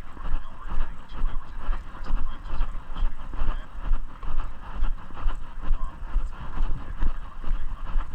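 Footsteps of a person walking at a steady pace, a low thud about twice a second, over a constant rustling noise.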